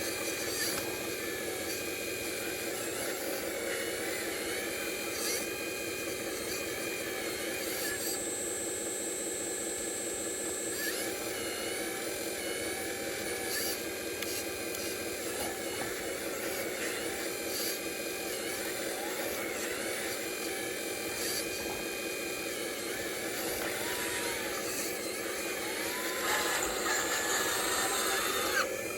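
Whine of the small electric motors and gearboxes of radio-controlled construction models, with pitches sliding up and down as they move; it grows louder and busier near the end.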